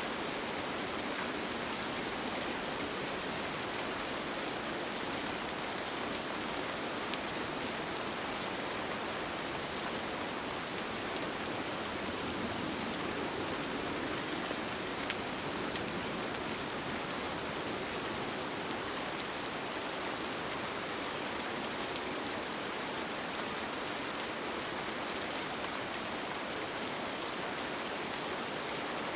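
Steady rain falling, with faint scattered drop ticks in the even hiss.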